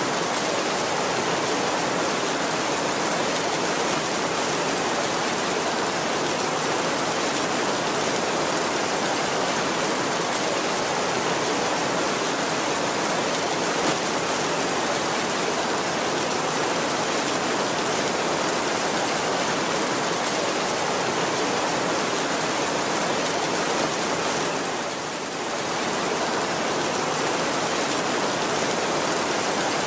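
Heavy rain falling steadily: a dense, even hiss, with a brief dip in loudness about 25 seconds in. No thunder is heard.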